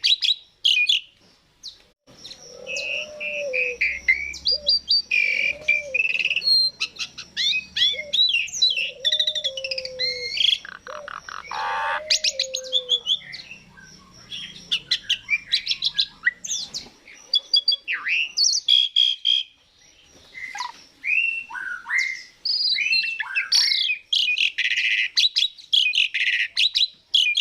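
Asian pied starling (jalak suren) singing: a long, varied run of whistles and chirps sliding up and down in pitch. Lower looping whistles come through in the first half, with a quick rattling trill about eleven seconds in.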